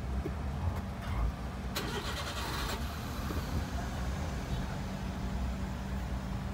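Car engine idling steadily, heard from inside the cabin, with a brief rush of noise about two seconds in.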